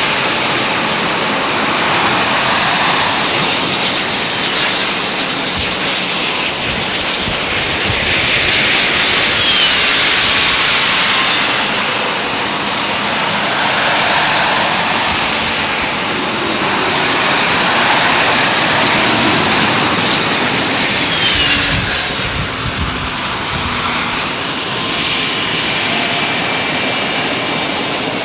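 Alpha Jet turbofan engines running loud and continuous, swelling and easing as the aircraft move, with high turbine whines that slide down in pitch as jets go past, once about a third of the way in and again near the end.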